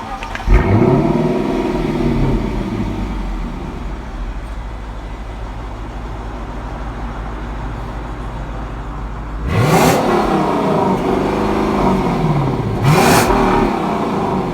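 Lexus LC500's V8 exhaust: the engine fires up with a quick flare about half a second in, settles to a steady idle, then is revved twice, a long rev about ten seconds in and a shorter blip near the end, each pitch climbing then falling back.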